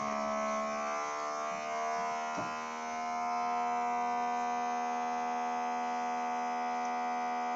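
Vacuum Fresh vacuum sealer running through a cycle to heat-seal one end of a bag: a steady electric hum, its pitch settling in the first second, that cuts off abruptly at the end.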